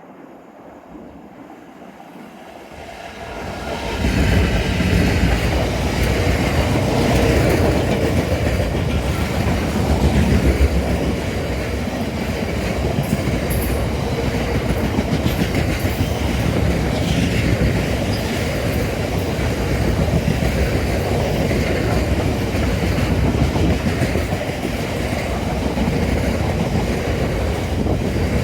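Class 66 diesel-electric locomotive with its two-stroke V12 engine working, hauling a freight train past at close range. The sound swells in over the first few seconds and then runs on as a steady loud passing, with the wagons' wheels clattering over the rail joints.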